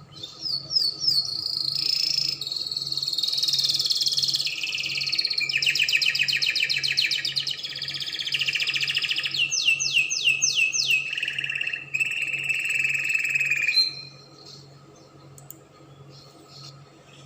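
Spanish Timbrado canary singing a long song phrase of rapid rolling trills, a run of about five quick falling notes, and a held note near the end. The song stops abruptly about fourteen seconds in.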